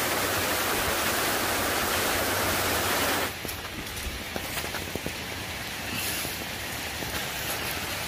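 Steady rush of a waterfall's falling water. It drops noticeably quieter about three seconds in, with a few faint clicks after.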